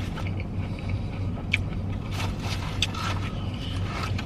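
Steady low hum of a car heard inside the cabin, with scattered clicks and rustles of eating fast food; two sharper clicks come about one and a half and three seconds in.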